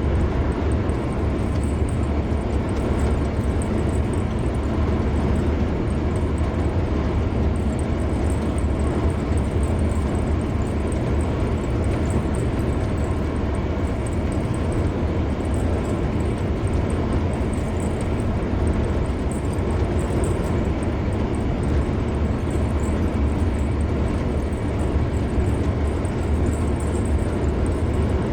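A car driving steadily on a highway: a constant rumble of road and tyre noise with engine hum. It is strongest at the low end and does not change in level.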